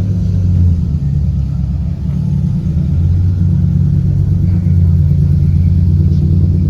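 Car engine running steadily close by: a loud, deep drone that dips briefly about two seconds in.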